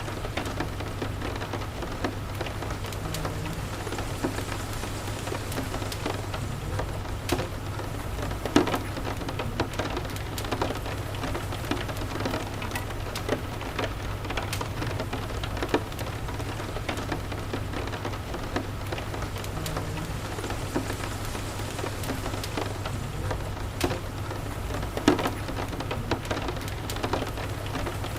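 Steady rain ambience with a crackling fireplace: an even hiss of rain, scattered sharp pops and crackles, and a constant low rumble underneath.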